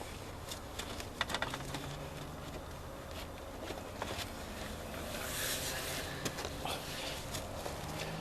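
Scattered light clicks and knocks with some rustling, from a headlight housing being wiggled and pushed to line it up with its mounting bracket, over a faint steady low hum.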